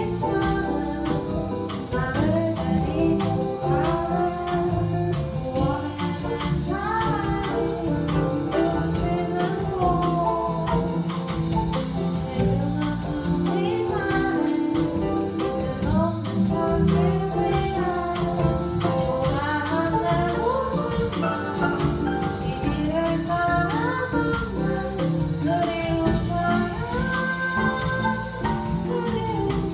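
Live band of drum kit, bass, piano and guitar playing steadily, with a sung lead melody over it.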